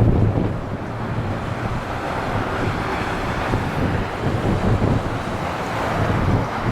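Strong, gusty wind buffeting the microphone: a steady rushing noise with an uneven low rumble.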